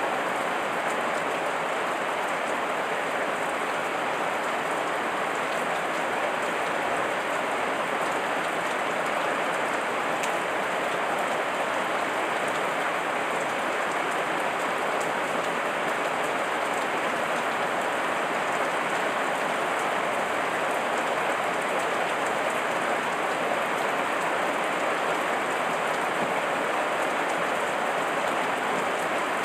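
Heavy rain falling steadily: an even, unbroken hiss of raindrops with no lulls or single events.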